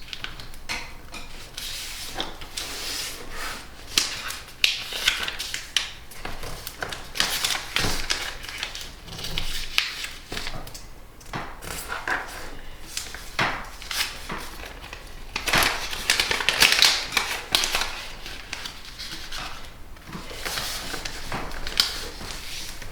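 A sheet of origami paper being folded into a square base by hand, with irregular crackling and rustling, and sharp creasing sounds as the folds are pressed flat.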